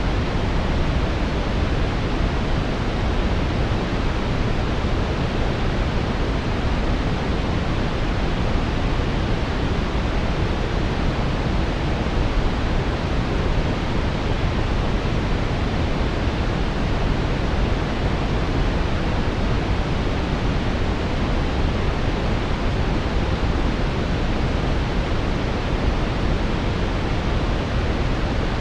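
Synthetic brown noise: a steady, deep rushing hiss, strongest in the low end, with no change or events.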